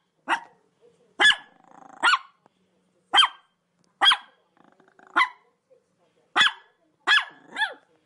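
A dog barking: nine short, sharp barks about a second apart, the last two coming close together near the end.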